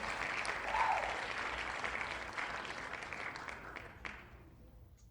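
Applause, a dense patter of many claps, fading away about four seconds in.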